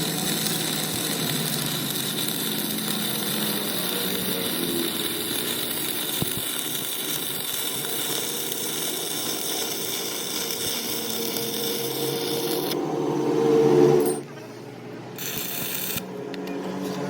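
Steady noise of a power tool working metal, which swells and then cuts out about fourteen seconds in.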